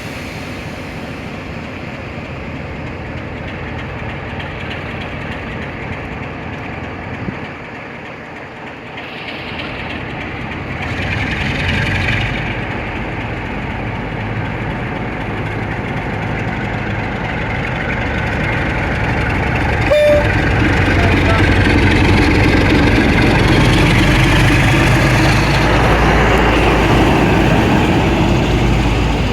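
Class 47 diesel locomotive's Sulzer twelve-cylinder engine powering up as the locomotive pulls away. The engine note builds and grows louder through the second half, with a heavy low rumble.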